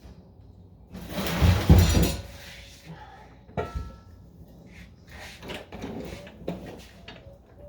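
Work noise while fitting exhaust parts: a loud scraping rustle about a second in, then a sharp knock and scattered light metallic clinks of tools and parts being handled.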